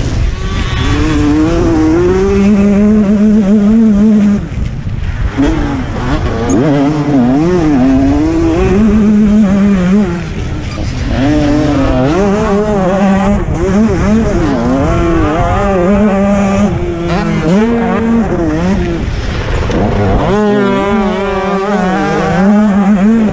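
KTM 125 two-stroke motocross bike engine revving hard around the track, its pitch climbing and dropping again and again as the rider works the throttle and gears. It eases off briefly about four and ten seconds in.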